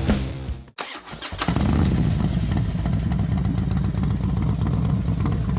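The music cuts off, and after a brief silence a dirt bike engine catches about a second in and then runs steadily.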